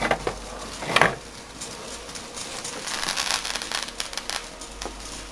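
Fireworks going off: two sharp bangs about a second apart, then a spell of fast crackling.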